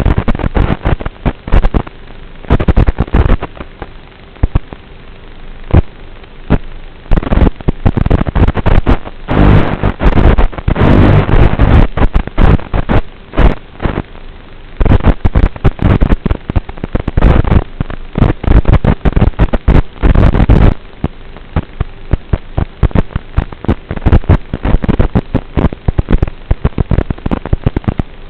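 HPI Savage RC monster truck driving through snow, heard through its onboard camera. The audio is rough and distorted: loud, irregular bursts of crackle and knocks that clip. After about 21 seconds it settles into a steadier, quieter hiss.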